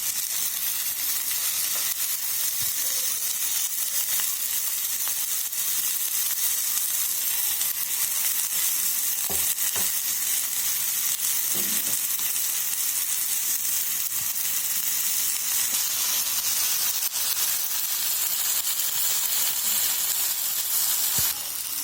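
Egg with onion, tomato and cabbage frying in oil in a pan, a steady sizzle, just turned over with a little more oil poured around it.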